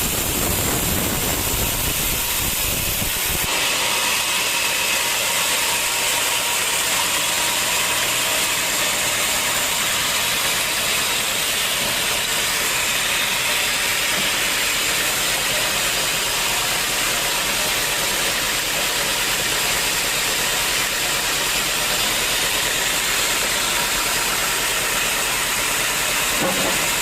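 Sawmill saw running steadily with a high hiss. A low rumble under it stops abruptly about three and a half seconds in.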